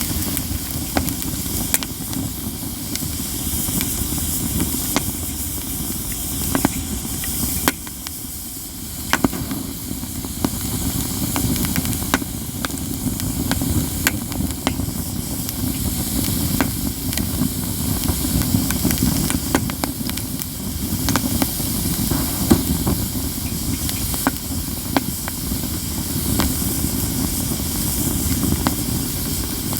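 Katsura wood campfire crackling steadily, with many irregular sharp pops over a constant low rushing hiss.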